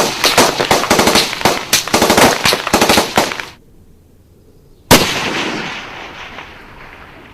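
Rapid automatic gunfire, shots coming several a second, that stops about three and a half seconds in; after a short pause, a single loud gunshot with a long echoing tail that fades away.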